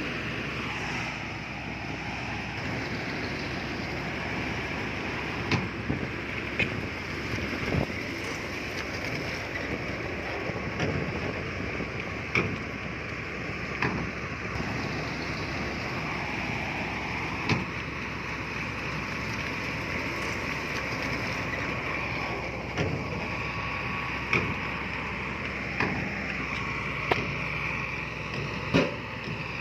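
Heavy diesel earthmoving machinery running steadily, its pitch rising and falling now and then, with sharp metallic clanks every few seconds.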